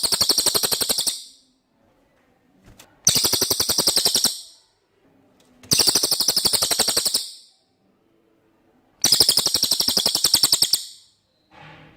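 Cililin song: a rapid, high-pitched rattling trill of one and a half to two seconds, repeated four times about three seconds apart.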